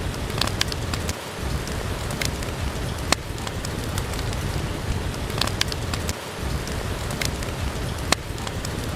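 Steady rain falling, with scattered sharp pops and clicks from a crackling fireplace.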